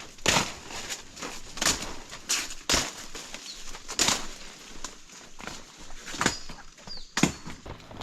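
Footsteps rustling and crunching through jungle undergrowth and leaf litter, an irregular swish about every half second to second.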